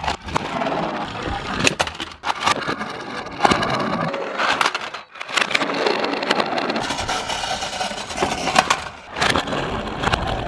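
Toy minicars rolling and clattering along a track, with many sharp clicks and knocks over a rattling roll and a short lull about five seconds in.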